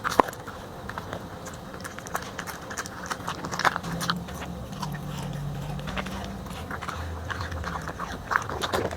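A corgi chewing and biting into food, with irregular crunching clicks of its jaws.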